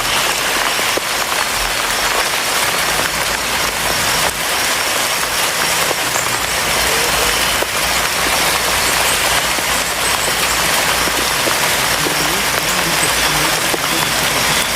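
Steady, rain-like hiss of falling water, even and unbroken, with a few faint higher tones on top.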